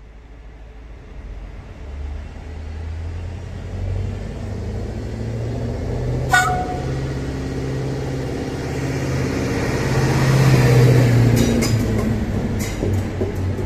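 Trenitalia Minuetto regional train approaching and passing close, its engine and running noise growing steadily louder. It gives one short horn toot about six seconds in, then its wheels click over rail joints as it goes by.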